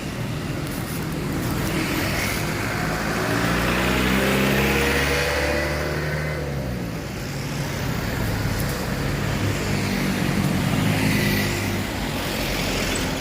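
Motor vehicles passing by on a road: one engine rises and falls in pitch as it goes by a few seconds in, and a second passes near the end, over steady traffic noise.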